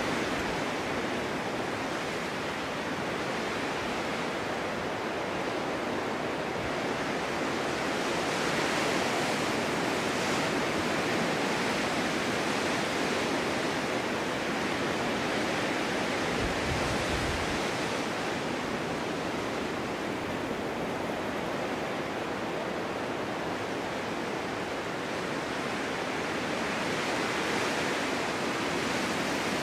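Snowstorm wind blowing steadily as a dense hiss, swelling and easing slowly in gusts, with a brief low rumble about halfway through.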